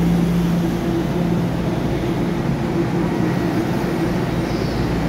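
Steady low electric hum of a TEMU2000 Puyuma tilting train standing at an underground platform, with two constant hum tones over even background noise.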